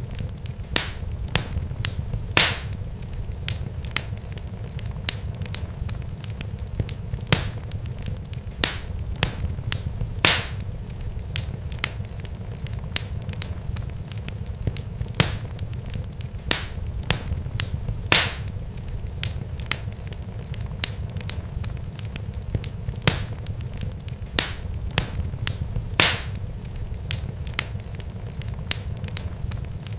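Irregular sharp crackling pops, a few much louder than the rest, over a steady low rumble.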